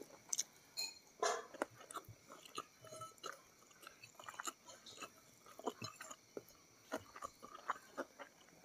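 A person chewing food with soft, scattered mouth clicks, and small taps of fingers picking rice and food off a plate.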